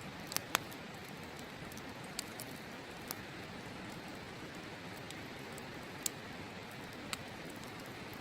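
Wood campfire crackling, with a few sharp, irregular pops, the loudest about half a second in, over the steady rush of a river.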